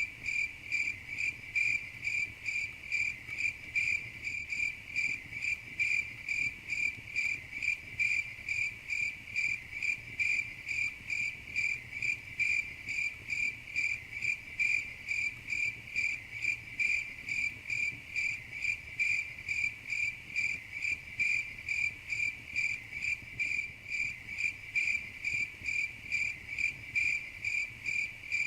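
Crickets chirping in a steady, even rhythm of about two to three high-pitched chirps a second, over a faint low background rumble.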